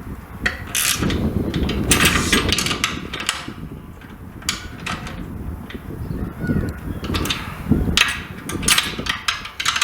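Metal hardware and hand tools clicking and clanking as M8 bolts with washers and nuts are tightened down, in irregular sharp clicks and quick runs of clicks over low handling rumble.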